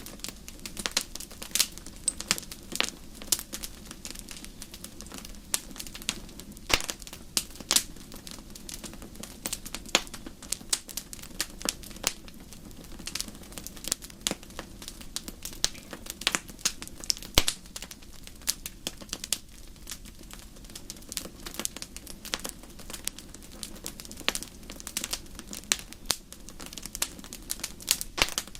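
Campfire crackling: many irregular pops and snaps over a steady low rush of burning.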